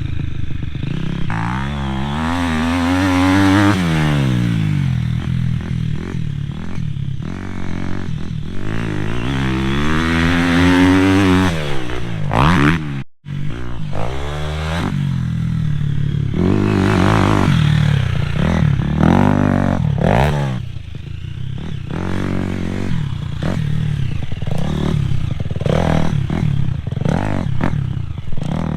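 Dirt bike engine ridden hard around a motocross track, its pitch climbing with each burst of throttle and falling away again, over and over. The sound cuts out for an instant about thirteen seconds in.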